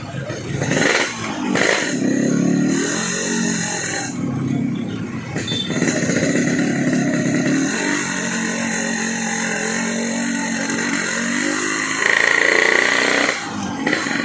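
Yamaha RX-King two-stroke single-cylinder engine through a gutted 'bobokan' exhaust, ridden along with its pitch rising and falling several times as the throttle opens and closes, loudest about twelve seconds in. A steady rush of wind noise runs underneath.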